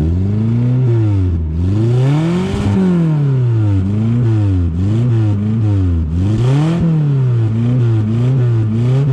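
Hindustan Contessa 1.8 GL's Isuzu 1.8-litre inline-four being free-revved at standstill through its loud exhaust. One long rev peaks about two and a half seconds in, then comes a run of short, quick throttle blips, faster towards the end.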